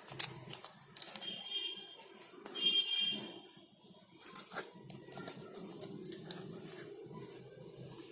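A sharp click and handling noises as battery cells are fitted. About five seconds in, a small battery-powered DC motor spinning a fan starts a faint, steady hum, turning anticlockwise as it should for the homemade vacuum cleaner to work.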